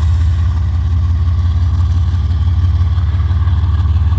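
An engine idling with a steady, loud, low rumble.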